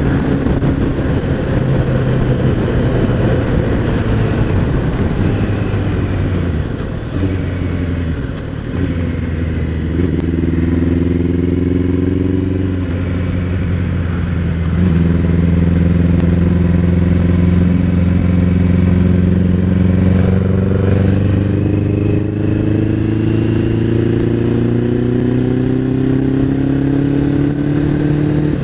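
Suzuki Bandit motorcycle's four-cylinder engine heard from the rider's seat. It starts at cruising speed with wind and road noise, then the note drops in steps as she changes down and slows for a roundabout. Near the end it rises steadily as she accelerates away. It pulls smoothly at low revs without juddering or threatening to stall, its fuel filter freshly changed.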